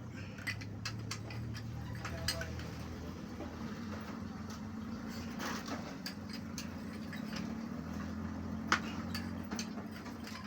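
Scattered metallic clicks and taps of hand tools on engine parts, a couple of sharper knocks among them, over a steady low hum.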